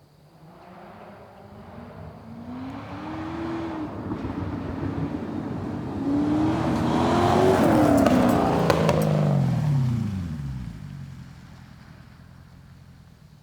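Lexus SC400 drift car driving past while accelerating. The engine note climbs, dips briefly at a gear change, climbs again, then drops in pitch and fades as the car goes away.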